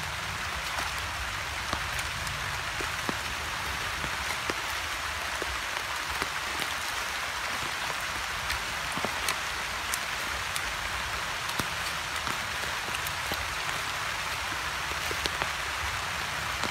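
Rain pattering steadily, with scattered louder drop clicks.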